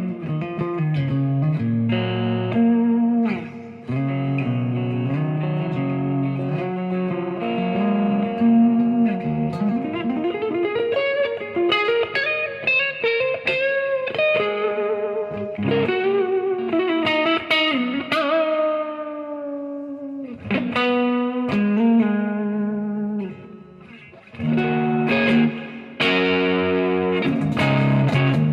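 Gibson Les Paul electric guitar with humbuckers, played through a Marshall amp and a Third Eye overdrive pedal. Loose noodling of chords and single-note lines with string bends and slides, with a couple of short pauses where notes ring out and fade.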